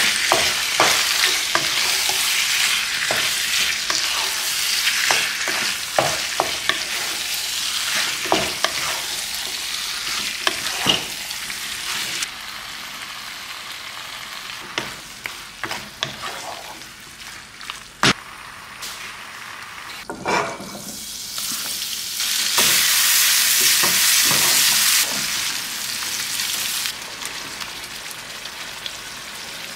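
Food sizzling as it fries in a pan while a utensil stirs it, knocking and scraping against the pan many times. About two-thirds of the way through the sizzle grows louder for a couple of seconds.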